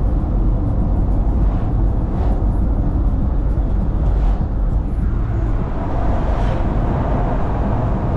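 Steady low rumble of road and wind noise from a moving vehicle, with a few brief whooshes of passing traffic.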